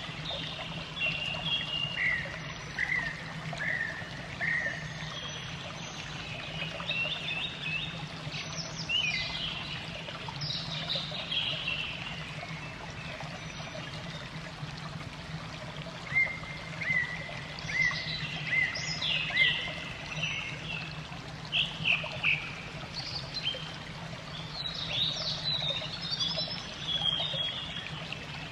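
Small birds chirping in short clusters of quick, high notes, over a steady trickle of running water and a low, steady hum.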